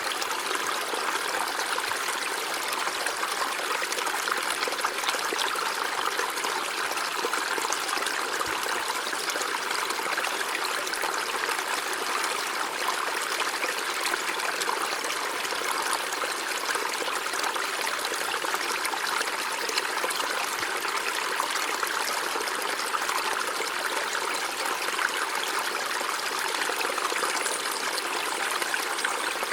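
River water running over rocks in a steady, even rush with fine splashing and trickling.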